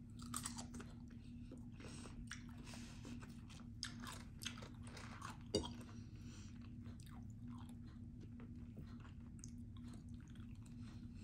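Close-miked chewing and biting of food, an irregular run of small mouth clicks and crunches with a few sharper crunches, over a faint steady hum.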